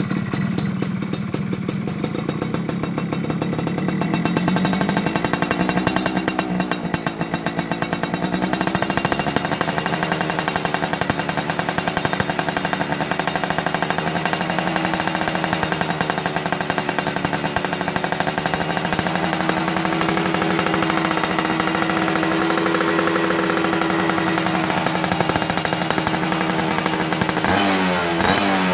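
Yamaha F1ZR's single-cylinder two-stroke engine running through a racing exhaust, with a rattly note. Its pitch wavers up and down with small throttle changes, then shifts quickly near the end.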